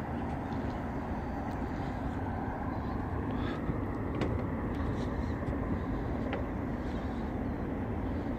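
Steady rumble of a vehicle engine running, even throughout, with a few faint clicks.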